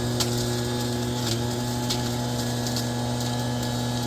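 Workshop machine's electric motor running steadily with a low hum and a hiss, with a few faint ticks.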